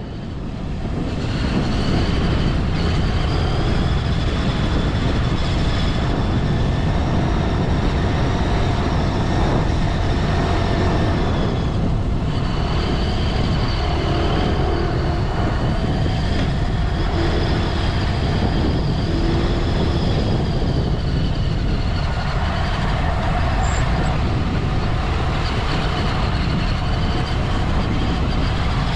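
Dirt bike engines running under way, a steady motor drone mixed with heavy low rumble and wind, fading in at the start and briefly dipping about twelve seconds in and again near twenty-two seconds.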